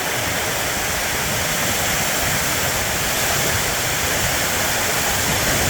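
Torrential wind-driven rain hammering a sheet-metal roof: a steady, deafening hiss with no break.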